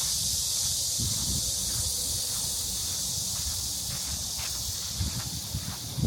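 Steady, high-pitched drone of a summer cicada chorus. A few low thumps come and go, the loudest near the end.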